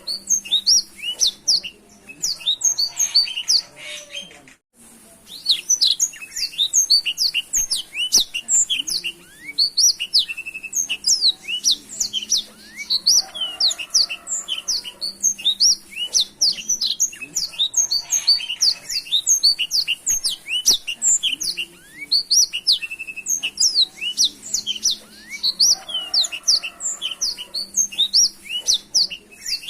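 Black-throated canary (blackthroat) singing a fast, near-continuous song of high chirps and trills, with only a brief pause a few seconds in.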